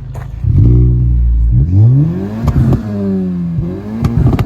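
Single-turbo Honda Civic engine blipped up from idle several times, the revs rising and falling, with sharp exhaust pops and bangs as the revs drop from about two and a half seconds in.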